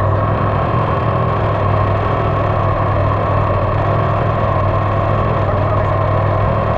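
2020 SSR 189 dirt bike's single-cylinder engine running at a steady speed while being ridden, with no revving.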